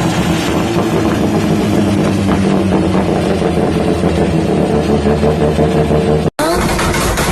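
Turbocharged car engine running at a steady, uneven-sounding idle. Near the end there is a sudden cut, and then a rapid crackle of sharp exhaust pops begins, typical of an anti-lag system firing.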